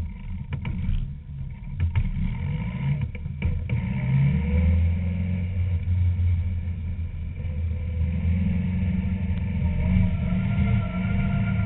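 Caterham Seven's engine running and pulling through the revs, heard from inside the open cockpit, with a few sharp knocks in the first four seconds.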